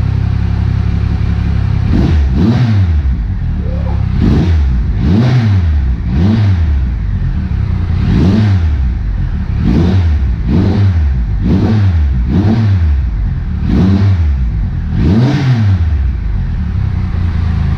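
Triumph Trophy SE's inline-three engine idling, then revved in about ten quick throttle blips through a freshly fitted Remus titanium exhaust, each rev rising and dropping back to idle.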